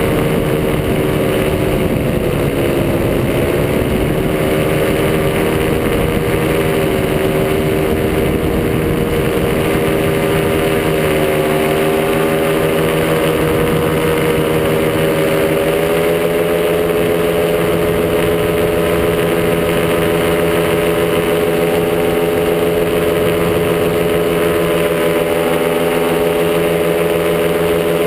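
Top80 paramotor's two-stroke engine running steadily in flight, its pitch dipping briefly as the throttle is eased about three seconds in, then coming back up and rising a little again about halfway through. Wind rushes over the microphone throughout.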